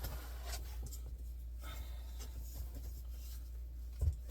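Faint rustling and scraping as the parts and packaging of a boxed 3D printer are handled, over a steady low hum, with a short knock about four seconds in.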